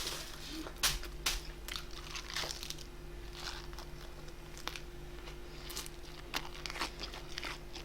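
Close-miked eating: food being chewed and crunched, with scattered short crackly clicks about once a second.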